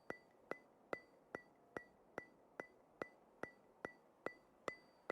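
Faint, steady ticking at about two and a half ticks a second, each tick a sharp click with a brief high ring.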